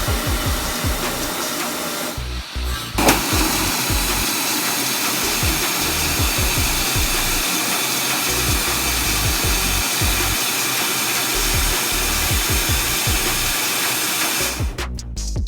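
Air-conditioner refrigerant pipes being flushed: pressurised gas and flushing fluid blowing out through the line as a loud, steady hiss. It dips briefly about two seconds in, comes back with a sharp burst at about three seconds, and cuts off near the end.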